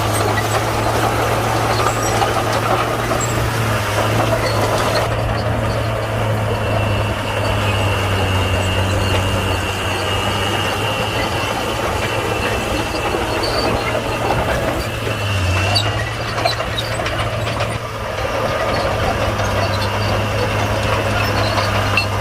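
Komatsu D41P crawler bulldozer's diesel engine running steadily while working, with a faint high squeal from about seven to fifteen seconds in.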